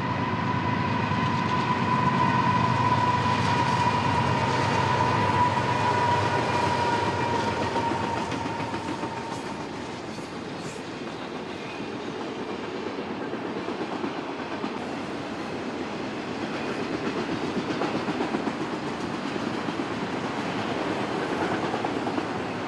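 Eastbound autorack freight train rolling past on the main line, its wheels clicking and rattling over the rail joints. A steady high whine fades away over the first nine seconds or so.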